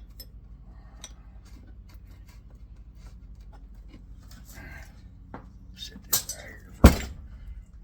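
Metal tools and motor parts clinking and knocking on a workbench, with scattered light clicks and then two sharp metallic knocks near the end, the second the loudest.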